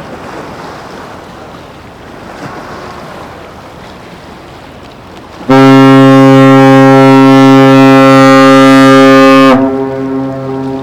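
AIDAprima's cruise-ship horn sounds one long, deep, steady blast of about four seconds, starting about halfway in. It is the first of the three long blasts it gives on leaving port. Before it there is a steady background hiss of wind and harbour, and after it stops the horn's sound echoes on faintly.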